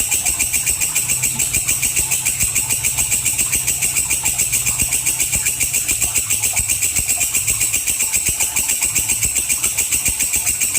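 Walang kecek katydid stridulating: a continuous, rapid, evenly pulsed high-pitched chirring with no pauses.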